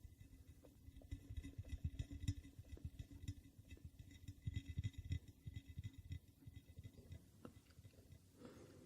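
Fingertips tapping rapidly and irregularly, soft dull taps with a few sharper clicks among them, close to the microphone. The tapping thins out and stops near the end, where a faint hiss takes over.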